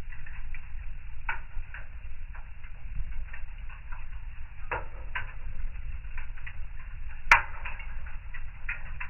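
Wood fire burning in a fireplace: a low steady rumble with irregular crackles, and one sharp, loud pop about seven seconds in.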